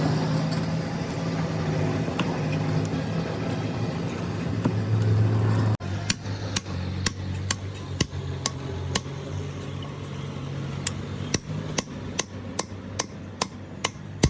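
A steady low machine hum runs for about six seconds and then cuts off abruptly. Repeated sharp hammer taps follow, about two a second, over a quieter hum, typical of work on a motor in a repair shop.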